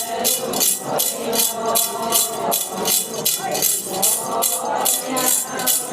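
Metal jingles shaken in a steady rhythm, about three strokes a second, as the Ponung leader's yoksha, a sword hung with jingling metal pieces, keeps time for the dance; voices murmur faintly beneath.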